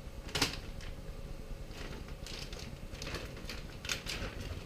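Packaging of a parts kit being opened and handled: a string of crinkles and clicks, with a sharp one about half a second in and another near the end.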